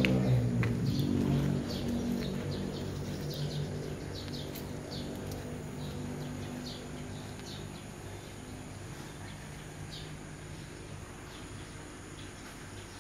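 Birds chirping in short repeated calls, with a low steady hum that is loudest at the start and fades away over the first few seconds.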